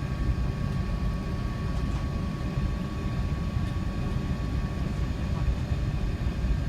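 Steady low rumble of airliner cabin noise inside an Airbus A380, with a faint steady whine above it.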